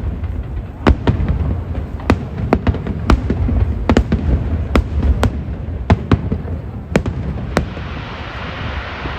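Aerial fireworks display: about a dozen sharp shell bursts in irregular quick succession over a continuous low rumble. Near the end the bangs stop and give way to a steady hiss.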